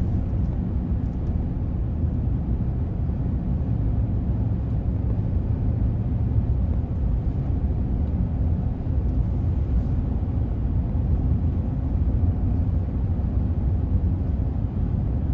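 A car being driven along a road, heard from inside the cabin: a steady low rumble of engine and tyre noise.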